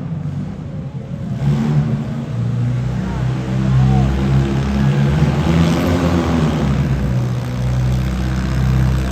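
Several demolition derby cars' engines running and revving at once, their pitches rising and falling as the drivers work the throttle.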